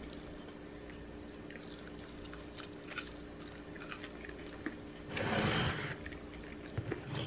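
Close-miked chewing of french fries, with small wet mouth clicks over a steady low hum. About five seconds in, a loud rush of breathy noise lasts about a second.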